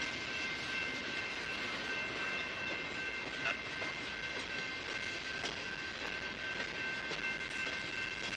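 Freight train cars, covered hoppers and flatcars, rolling past close by with a steady rumble and clatter of steel wheels on rail. A steady high-pitched ringing tone runs over it, and now and then a sharp click comes from the wheels.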